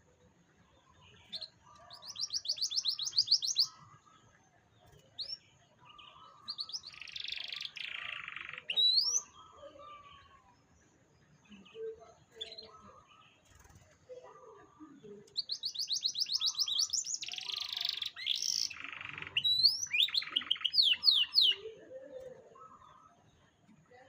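Canary singing in bouts of fast trills and quick rising whistles: a short bout near the start, another about a third of the way in, and a longer, denser one through the second half.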